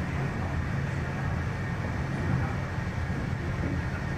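Steady low rumble of a Korean-built MTR East Rail Line electric train (Hyundai Rotem R-train) running at speed, heard from inside the carriage.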